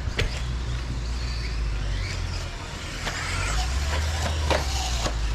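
Radio-controlled stadium trucks racing on a dirt track: a faint high motor whine and a few sharp clacks of trucks landing or hitting the track, over a steady low rumble.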